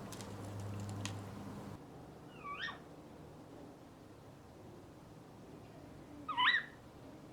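African grey parrot giving two short whistled calls that slide up and down in pitch, one about two and a half seconds in and a louder one near the end. A few faint clicks and a low hum come in the first two seconds.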